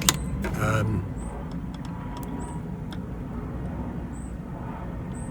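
Steady low outdoor background rumble, with a sharp click at the start and a brief rustle about half a second in; faint short high chirps recur every second or so.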